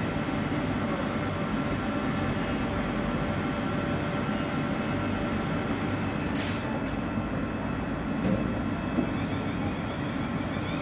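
Train at a station: a steady low rumble and hum of its running equipment, with a short hiss of air about six seconds in.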